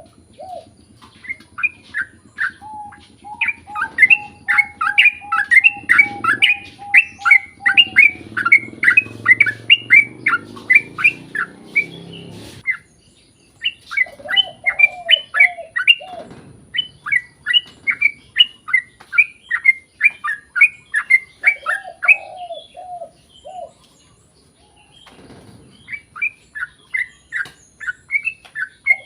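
Yellow-vented bulbul (trucukan) singing long, rapid runs of quickly repeated chirping notes, with a short break about halfway and a longer one late on. Short runs of lower, arched notes come in between, and a faint steady high tone runs underneath.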